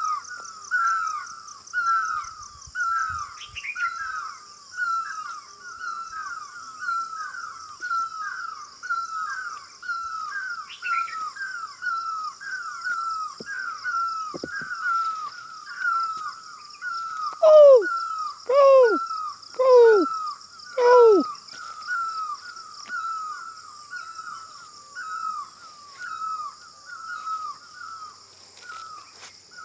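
Bird calling a steady, repeated series of short, down-slurred notes, about one and a half a second. Midway come four louder, deeper falling calls about a second apart, with a steady high buzz throughout.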